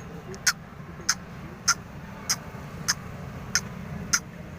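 Grey francolin calling: a run of seven short, sharp, shrill notes, evenly spaced a little over half a second apart, over a steady low hum.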